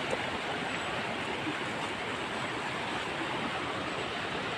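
River water rushing past the bank in a steady, even hiss.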